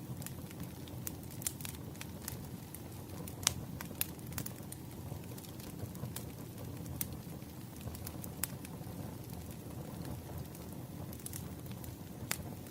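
Firewood burning with irregular sharp crackles and pops over a low, steady rumble. One pop about three and a half seconds in is louder than the rest.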